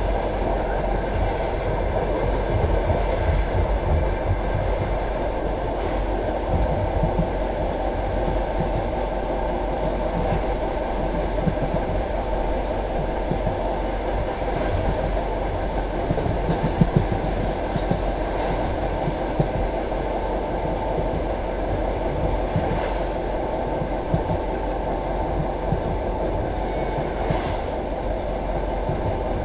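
Passenger train carriage running along the track: a steady rumble of wheels and bogies on the rails, with occasional sharp knocks from the wheels.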